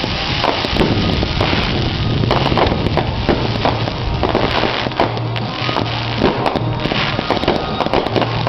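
Fireworks display: a rapid, continuous run of bangs and crackles from shells bursting, with music playing underneath.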